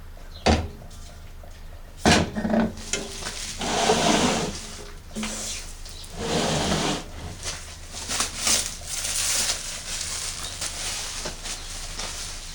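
Handling noise from unpacking: two sharp knocks, then rustling and scraping of packing material, with scattered light clicks.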